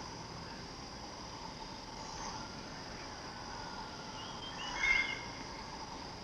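Steady high-pitched insect chorus in broadleaf forest, with a short bird call about five seconds in.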